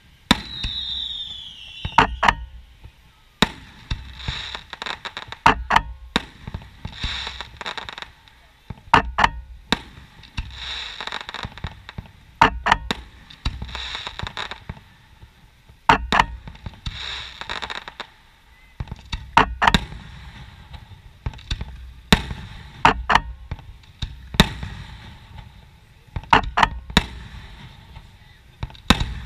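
Aerial fireworks shells bursting in a show, sharp loud bangs every second or two, with a falling whistle near the start and stretches of hiss between the bangs.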